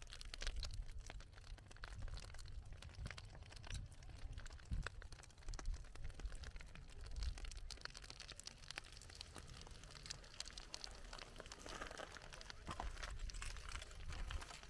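Lava flow crackling and crunching: irregular sharp cracks and tinkling clicks, as the cooling crust breaks and shifts, over a steady low rumble.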